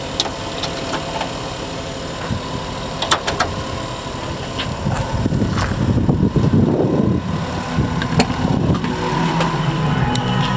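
Honda Acty mini truck's small three-cylinder engine running steadily, with a few sharp clicks, and getting louder from about halfway through.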